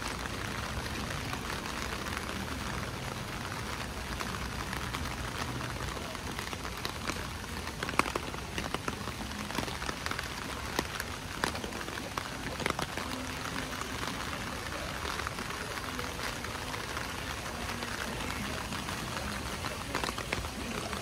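Steady rain falling, with many close drops ticking and tapping irregularly; one sharper tap comes about eight seconds in.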